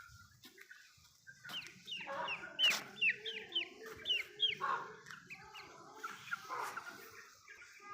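Chickens clucking and cackling, with a quick run of high, falling calls about a second and a half in and scattered calls after.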